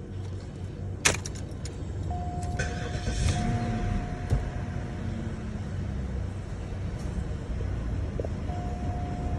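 Sounds of a 2002 Cadillac DeVille at the ignition: a sharp click about a second in, then a steady electronic chime tone for about three seconds that comes back near the end, over a constant low rumble.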